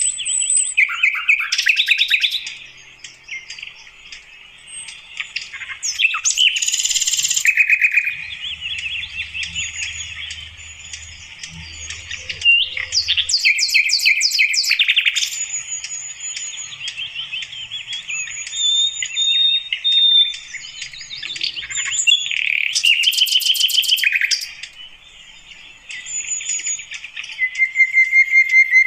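Sikatan londo flycatcher singing: a long, continuous run of quick chirps, rattling trills and thin high whistles, rising and falling in loudness as phrases start and stop.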